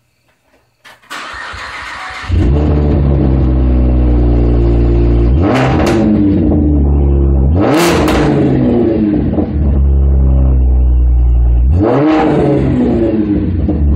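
Supercharged 2010 Chevrolet Camaro engine being started: a click, the starter cranking for about a second, then the engine catches and settles into a loud idle. It is then revved up and back down three times, the middle rev the highest.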